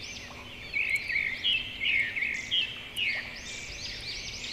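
Several birds chirping and twittering: many short, high chirps overlapping one another, with louder bursts of chirps about one, two and three seconds in.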